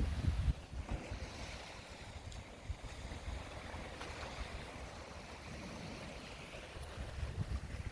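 Wind buffeting the microphone in low gusts at the start and again near the end, over a steady outdoor rush of wind.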